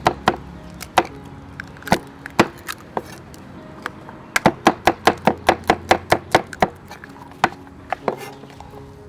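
Knife chopping on a cutting board: scattered single strokes, then a quick run of about a dozen in a couple of seconds around the middle, then a few more.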